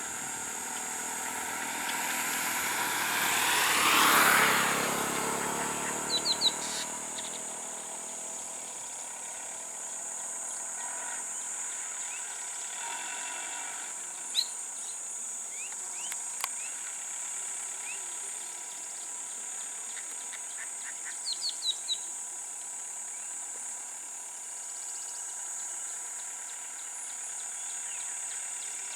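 A motor vehicle drives past, swelling to its loudest about four seconds in and then fading. After it, birds give short chirps a few times over a steady high-pitched drone.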